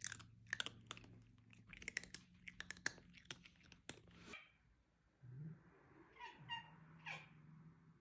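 Domestic cat giving a few short, faint meows in the second half, after a run of sharp clicks and taps.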